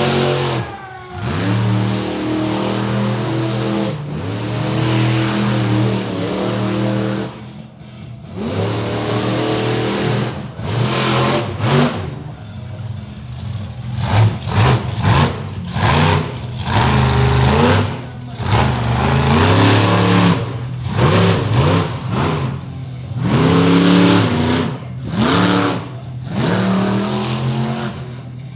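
Monster truck engine revving hard in repeated surges, its pitch climbing with each burst of throttle and dropping or cutting out between them.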